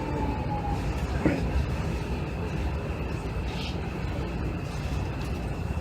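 Interior sound of a Hanshin 5700 series commuter train car: a steady low rumble with a faint steady high whine, and one sharp knock about a second in.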